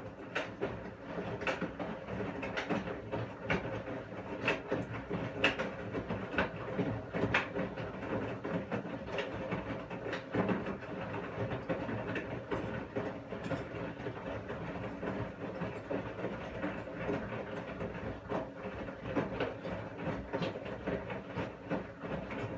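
Washing machine running: a steady motor hum with sharp clicks and knocks about once a second as the drum turns.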